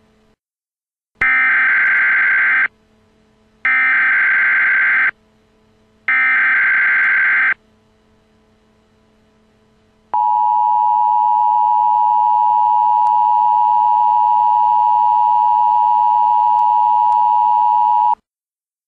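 Emergency Alert System header: three short bursts of warbling data tones, then the steady two-tone EAS attention signal for about eight seconds, cutting off abruptly. It announces a tornado warning.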